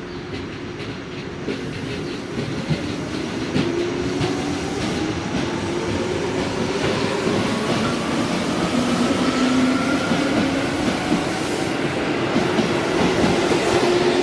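Tobu Tojo Line electric train pulling away, its motor whine rising in pitch as it speeds up, with wheels clicking over rail joints. It grows steadily louder.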